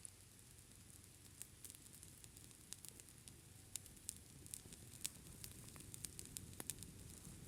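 Campfire crackling faintly, with scattered sharp pops at irregular intervals.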